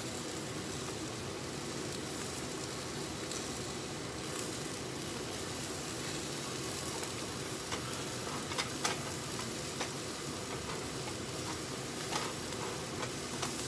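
Meat and vegetables sizzling steadily as they fry in a saucepan, stirred with a spatula. A few short scrapes and knocks of the spatula against the pot come between about eight and twelve seconds in.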